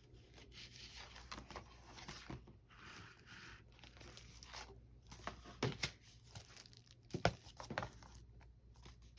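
Paper rustling and crinkling as vintage paper doll books and cards are handled and leafed through, with a few light taps or clicks in the second half.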